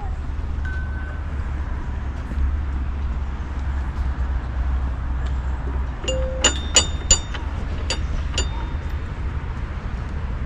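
Steady low rumble, like wind on the microphone, with a quick run of about six sharp metallic clinks that ring briefly, roughly two-thirds of the way through.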